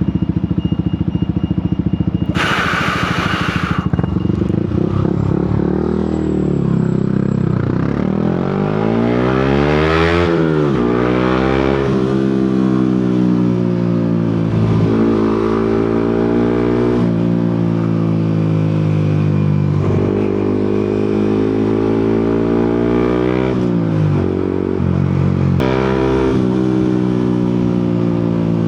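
Yamaha MT-125's 125 cc single-cylinder four-stroke engine riding under way, its revs climbing and dropping again and again as it accelerates and shifts through the gears. A brief loud hiss about two seconds in.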